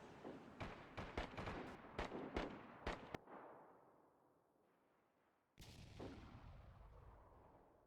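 Gunfire: a rapid string of about nine echoing shots over some two and a half seconds, then a single heavy boom about five and a half seconds in that dies away slowly.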